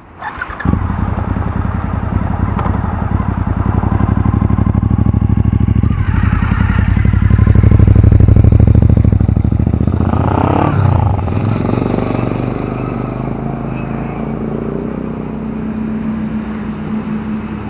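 Motorcycle engine running, loudest about halfway through, with a pitch sweep that falls away around ten seconds in.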